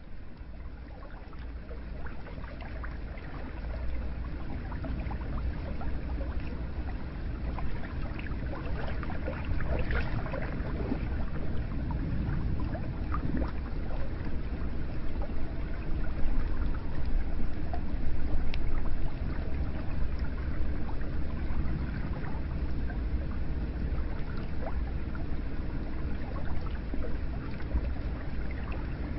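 Hot spring water flowing and splashing into a bath, a steady wash of water with many small splashes and drips over a low rumble, fading in over the first few seconds.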